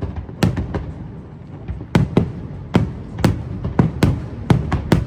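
Aerial fireworks bursting: a rapid, irregular string of sharp bangs, roughly two or three a second, over a continuous low rumble.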